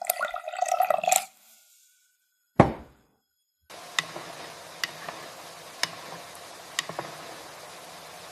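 Kitchen clatter with water for about a second, then a single loud thump. After a short silence, steady rain starts, with a drip falling about once a second.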